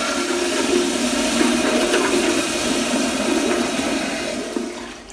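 Public restroom toilet flushing: a loud, steady rush of water that starts just before and dies away near the end.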